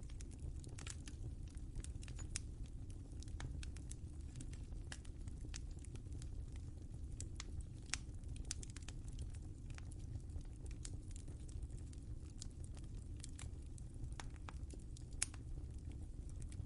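Wood fire crackling in a fireplace: a steady low rumble of flames with frequent small irregular pops, and one sharper pop near the end.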